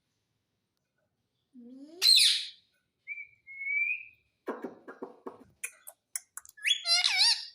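A pet parrot calling: a loud short screech about two seconds in, a thin rising whistle, a raspy chatter, then wavering warbled calls near the end.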